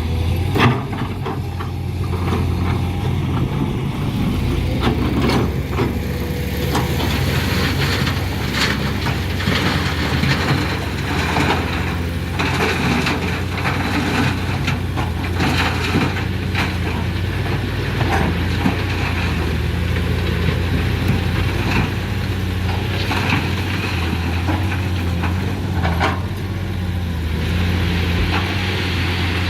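Excavator diesel engine running steadily, with frequent short cracks and knocks of stone being pressed and crushed under the machine.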